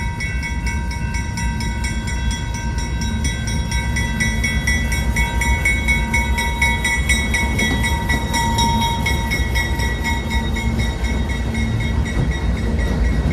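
Long freight train rolling past: a steady low rumble, rhythmic clacking of wheels over the rail, and steady high-pitched ringing tones held above it.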